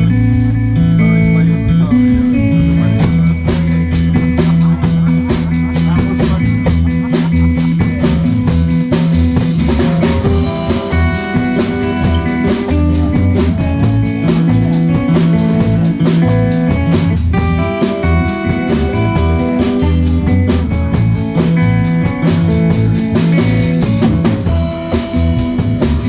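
Live rock band playing an instrumental passage: electric guitar, bass and a full drum kit with steady, dense hits, the drums picking up a few seconds in.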